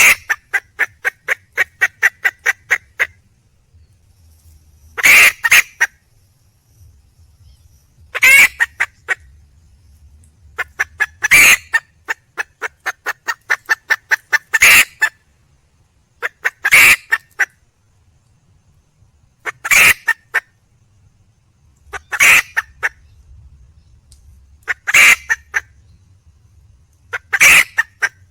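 Junglefowl hen calling for a mate: a run of rapid clucks at the start, then loud, short squawking calls about every three seconds, each followed by a few quick clucks.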